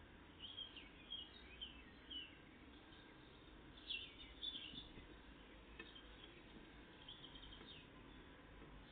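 Faint, high chirping calls of small songbirds, short falling notes coming in small groups several times, over a steady low background hiss.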